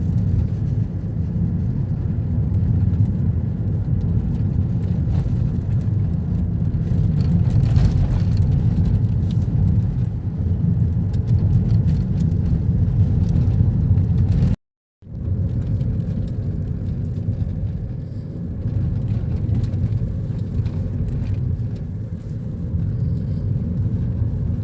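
Steady low road and engine rumble of a moving car, heard from inside the cabin. It drops out completely for a moment about fifteen seconds in.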